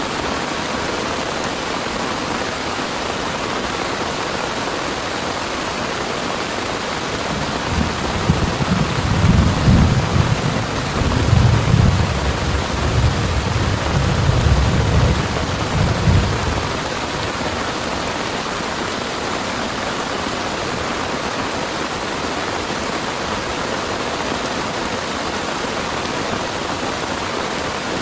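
Heavy rain falling steadily. About eight seconds in, a low rumble of thunder rolls in several swells for about eight seconds, then fades back under the rain.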